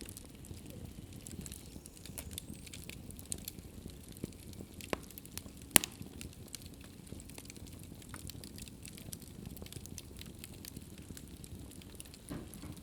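Wood fire crackling in a fireplace: a steady low rush of the flames with scattered small crackles, and one sharp pop a little before the middle.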